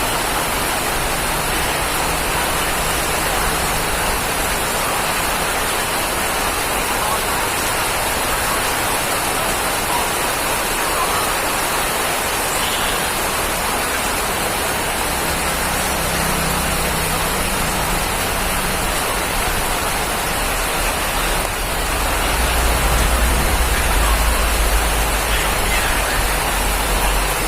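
Steady rain falling on a surface, an even, continuous hiss. A low rumble swells in the last few seconds.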